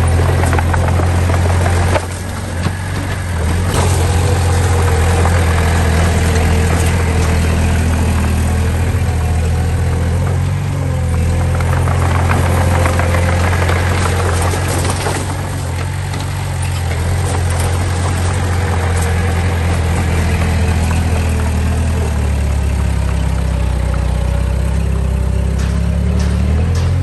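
Diesel engine of earth-moving machinery running steadily with a deep drone, dipping briefly in level a few times as the load changes.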